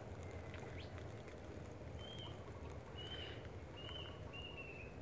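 A bird calling in four short, clear whistled notes, each slightly falling, about a second apart in the second half, faint over a steady low background hum.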